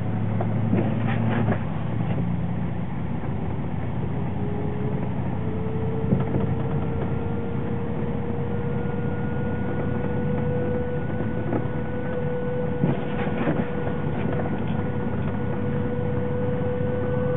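Siren-like whine from the rear driveline of a 2003 Chevrolet S-10 pickup, heard inside the cab while driving: a thin tone fades in a few seconds in, rises slightly in pitch, then holds steady over the rumble of the road. It is a cold-weather noise that stops once the truck warms up, with differential and transmission fluid both full. A few light rattles come from a loose door-handle mechanism and loose items in the cab.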